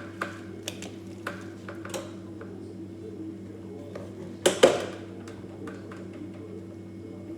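Scattered light clicks and clinks of tools and parts being handled over a steady low hum. A louder double knock comes about four and a half seconds in.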